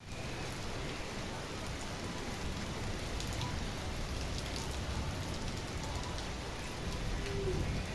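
Steady rain falling, a continuous hiss with scattered individual drops ticking on surfaces.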